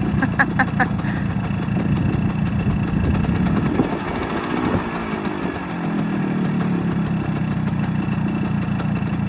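Small two-stroke motorbike engine running at idle, with a few short clicks about half a second in. Its revs waver and dip around the middle, then settle back to a steady idle.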